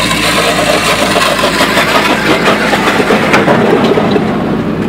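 Vehicle engine running, with a loud rushing noise that comes in suddenly at the start.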